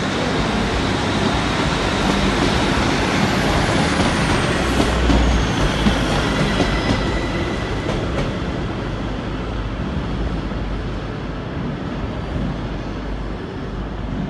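Passenger train pulling away along the platform, with a steady rumble of engine and wheels on the rails. It is loudest about five seconds in, then slowly fades as the train moves off.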